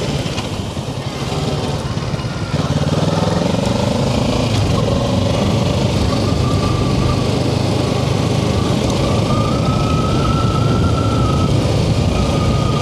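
Kawasaki Ninja 650's parallel-twin engine running while the bike is ridden. It gets louder about two and a half seconds in, and the engine note climbs as it pulls.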